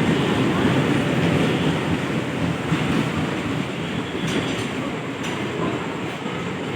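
Mysore–Kacheguda Superfast Express rolling in along the platform: a steady rumble of wheels on rail that eases slightly, with a few faint clicks from wheels crossing rail joints.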